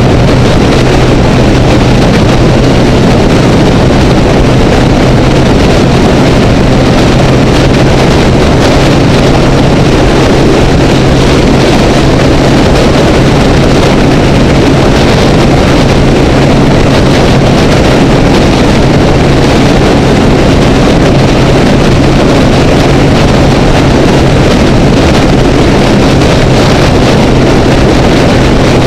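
Honda Rebel motorcycle engine running at a steady freeway cruise, a constant low drone under loud wind rush against the camera housing.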